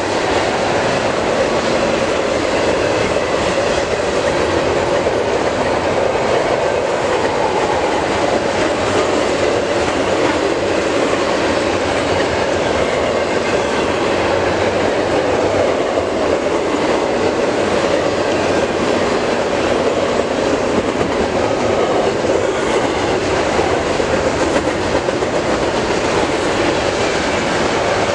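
Double-stack intermodal container well cars rolling past close by: a steady, loud noise of steel wheels running on the rails.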